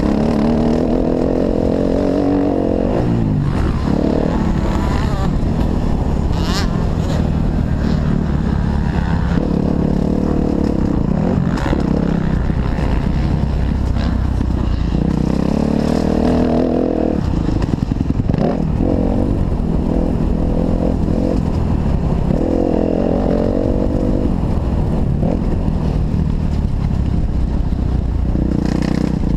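Kawasaki KX250F four-stroke single-cylinder motocross engine running hard, the revs rising and falling again and again as the throttle is opened and closed.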